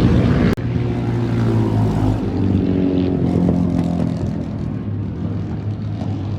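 Air-cooled Rotax single-cylinder engine of a supermono racing motorcycle running steadily. It breaks off for an instant about half a second in, then carries on, slowly getting a little quieter.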